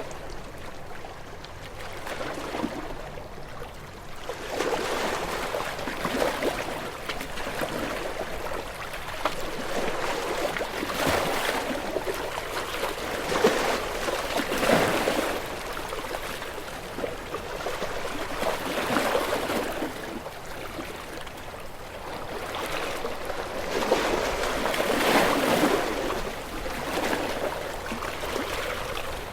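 Small waves washing onto a shore, swelling and receding every few seconds in a steady rhythm.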